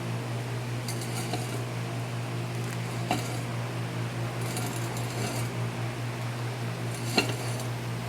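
A steady low hum with two light, sharp clinks, one about three seconds in and a louder one about seven seconds in.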